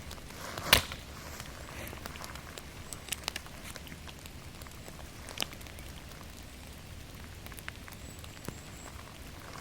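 Steady rain falling in a forest, with scattered sharp taps and drips; the loudest tap comes just under a second in.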